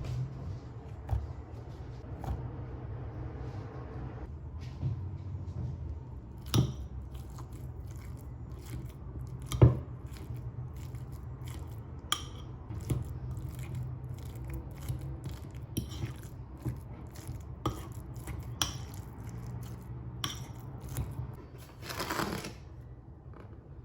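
Scattered light clicks and knocks of small objects being handled, two of them louder about six and a half and nine and a half seconds in, over a low steady hum, with a brief rustle near the end.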